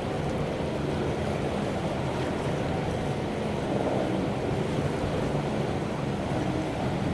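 Strong wind rushing and sea noise over a low, steady hum from a container ship's engines while it berths.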